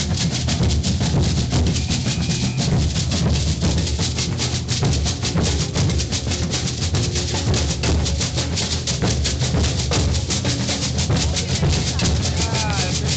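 Maracatu percussion group playing a dense, driving rhythm: deep bass drums with shakers and clacking strokes over them.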